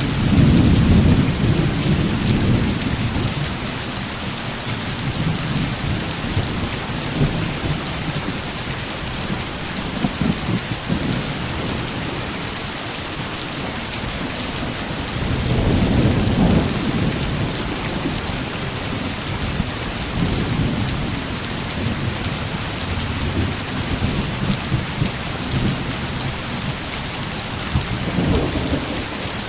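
Heavy rain falling steadily, with low rolls of thunder swelling up at the start, about halfway through and again near the end.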